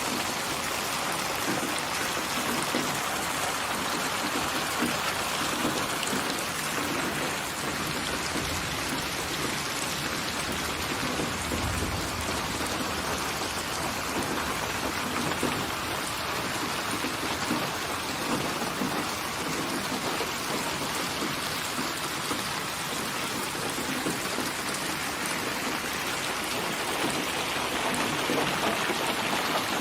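Steady rain falling, an even hiss of drops on surfaces, with a brief low rumble about twelve seconds in.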